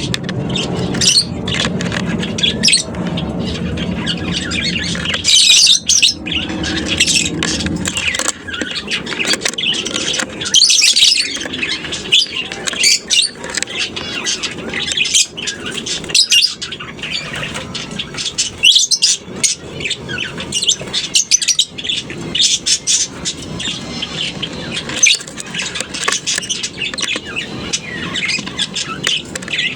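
Colony of lovebirds chattering, with many short, shrill chirps and squawks overlapping continuously. A low steady hum runs underneath for about the first eight seconds, then stops.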